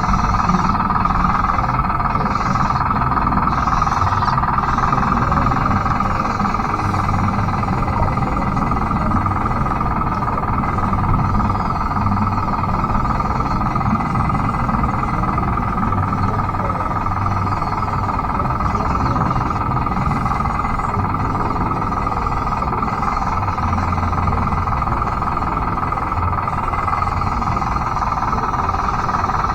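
Radio-controlled Bruder D5 bulldozer's electric drive motors and gearboxes running with a steady whine over a low rumble.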